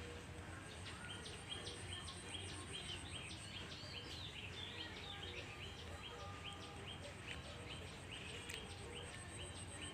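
Several birds chirping with many short, repeated calls over a low, steady background rumble. A high, rapid pulsing trill runs alongside, dropping out about a third of the way in and coming back near the end.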